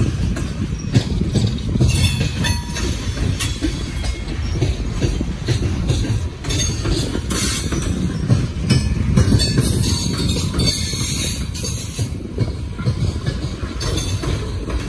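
Coal train's freight cars rolling past close by: a steady heavy rumble of steel wheels on the rails, with repeated clatter as the wheels cross rail joints and stretches of higher screech from the wheels.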